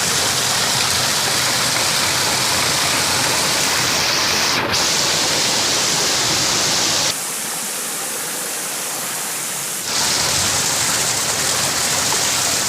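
Waterfall: a steady, loud rush of falling water. For about three seconds in the middle it turns quieter, with less low rumble, then comes back at full strength.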